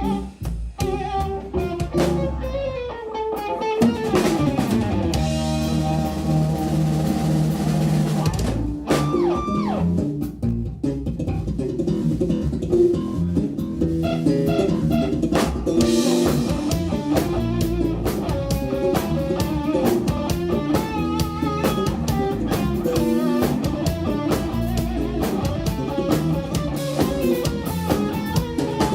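Live instrumental jazz-rock played by a trio of electric guitar, bass guitar and drum kit. A few seconds in, the band holds a low bass note under a sustained chord, then breaks into fast, busy playing with the drums driving.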